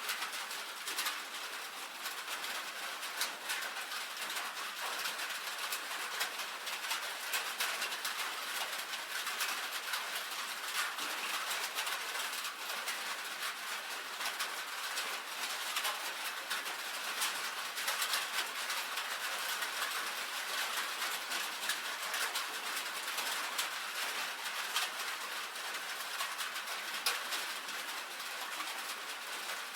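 Steady rain on a tin roof: a dense patter of countless small drops tapping the metal, holding an even level throughout.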